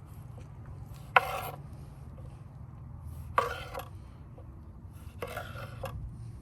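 Three short scrapes of a metal utensil against cookware, each starting with a sharp clink, about two seconds apart, over a low steady rumble.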